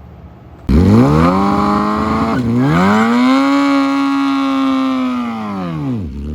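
Sport motorcycle engine revving hard. Its pitch climbs fast, dips briefly about two seconds in, climbs again and holds high, then drops off near the end.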